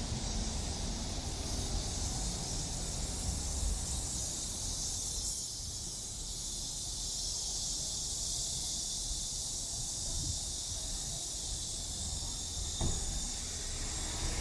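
A chorus of cicadas making a steady, high hiss, over low rumble. There is one short click near the end.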